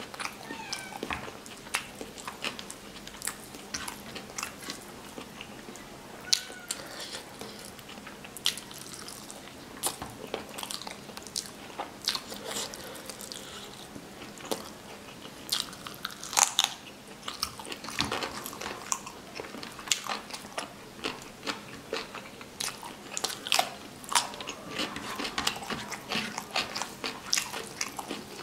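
Close-miked eating sounds of a person chewing pulao rice and chicken curry eaten by hand: wet chewing with many short, sharp clicks and smacks.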